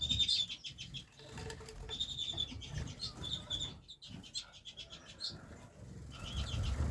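Redpolls in a breeding cage giving short repeated chirping calls, with wings fluttering as they move about.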